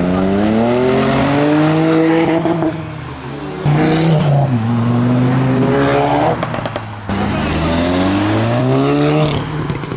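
Car engine revving hard three times, rising in pitch each time and then dropping back, as the car accelerates past.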